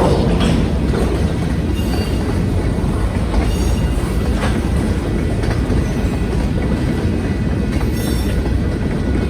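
Union Pacific freight train rolling past on the rails, with a steady low rumble and wheel clatter. Brief high-pitched wheel squeals come about a third of the way in and again near the end.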